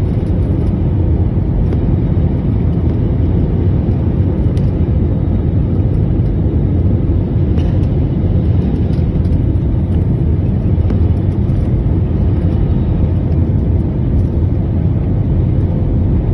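Steady, loud rumble of an airliner's engines and airflow heard inside the passenger cabin in flight, a deep even drone with no change.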